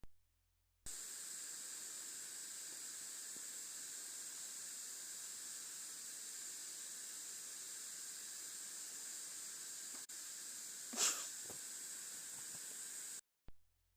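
Steady background hiss, with one short, louder noisy puff about eleven seconds in.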